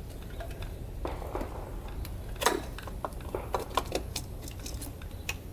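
Irregular metallic clicks and clinks of hand tools and parts as a dirt bike's carburetor is worked loose and removed, with one louder clank about two and a half seconds in.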